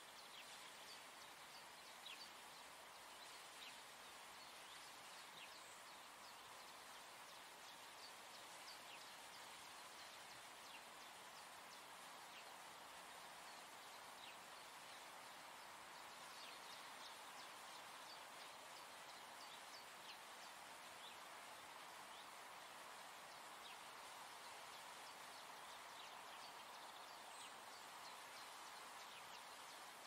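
Faint outdoor nature ambience: a soft steady hiss with short, scattered bird chirps throughout.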